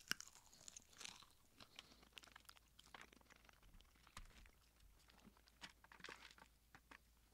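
A person biting into crispy fried chicken and chewing it: a crunch on the first bite, then faint, scattered crunching and chewing.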